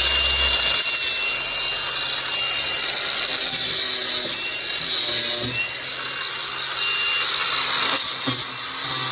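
Angle grinder with a flap disc grinding the car's sheet-metal body, a steady abrasive hiss with a high whine that comes and goes.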